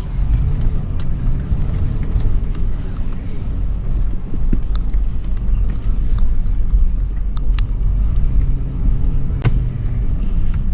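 The 2013 Toyota 4Runner's V6 engine and drivetrain running with a heavy low rumble as the SUV is driven over sand dunes, with a few sharp knocks and rattles, the loudest near the end.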